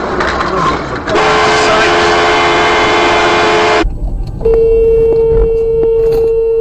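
Car horns sounding in two long held blasts. The first is a two-note horn lasting nearly three seconds. After a short gap, a single-note horn follows, held for about three seconds.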